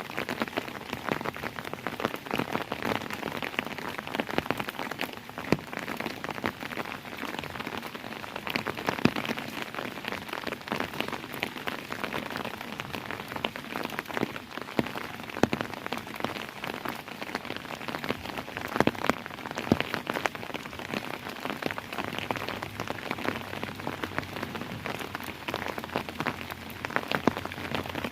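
Steady rainfall with many individual drops ticking sharply on a hard surface.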